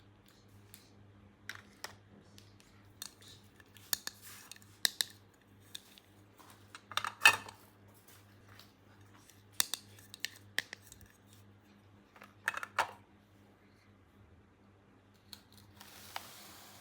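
Scattered clicks, taps and short scrapes of small plastic toy pieces and packaging being handled during an unboxing, with a brief hiss near the end.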